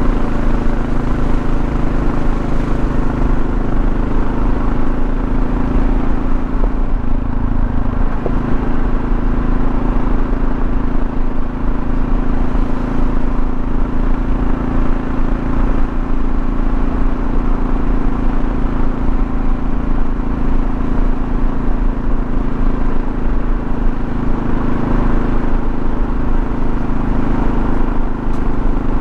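Single-cylinder engine of a Kawasaki KLR650 dual-sport motorcycle running at cruising speed, heard from the rider's seat with steady road and wind noise. The engine note changes about seven to eight seconds in, then settles again.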